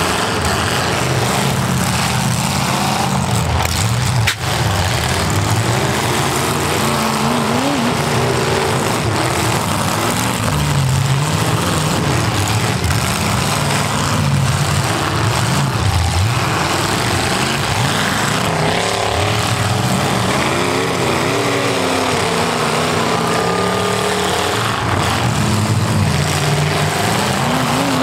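Several demolition derby cars' stock V8 engines revving and running hard together, their pitch rising and falling as they accelerate, with a sharp bang about four seconds in.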